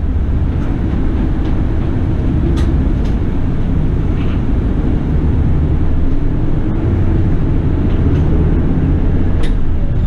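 City bus running, heard from inside the cabin: steady low engine and road rumble with a faint tone that slowly drifts in pitch, and a few light clicks or rattles.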